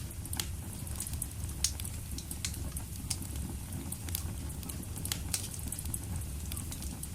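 Wood fire burning steadily in a fireplace, with a low rumble of flame and frequent irregular crackles and pops.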